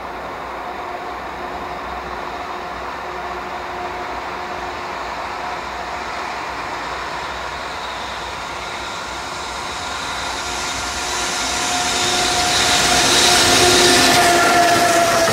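Electric locomotive hauling a container freight train, approaching out of a tunnel and growing steadily louder, loudest as the locomotive passes close by near the end, with a steady hum of motors and wheels on rail.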